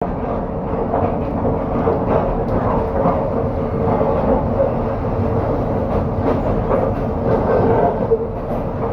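Passenger train running on the rails: a loud, steady rumble and rattle with a constant hum and irregular short knocks from the wheels and carriage.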